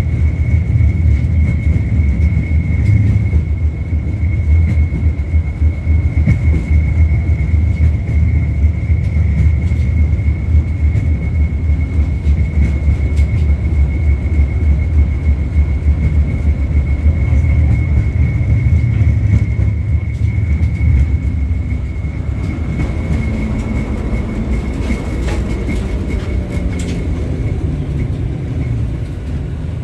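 LVS-86K articulated tram running, heard from inside the cabin: a steady low rumble of wheels on rail with a thin, steady high-pitched whine. The rumble eases off after about twenty seconds as the tram slows for a stop, and the whine fades out near the end.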